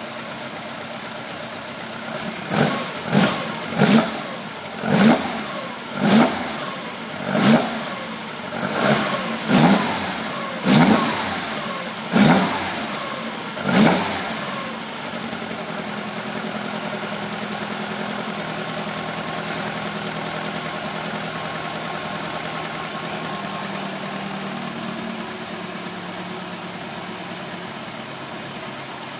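BMW 2002's M10 inline-four engine, fed by twin Solex 40 PHH carburettors that are not yet adjusted, running on its first start. It takes about eleven quick throttle blips over the first fourteen seconds, each one falling back, then settles to a steady idle.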